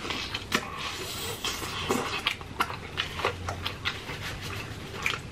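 Close-miked chewing of fried chicken: an irregular string of short wet smacks and crunches, several a second.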